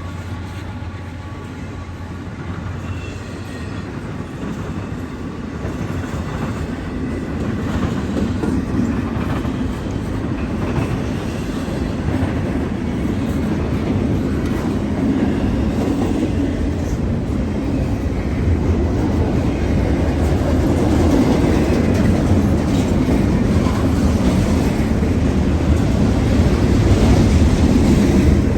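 Norfolk Southern freight train's cars rolling past, a steady rumble of wheels on rail that grows gradually louder.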